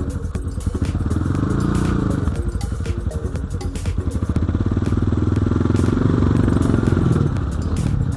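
BSE J1 enduro motorcycle engine riding under throttle, its pitch climbing and falling in two long sweeps as the rider revs up and eases off, with a rattling clatter throughout.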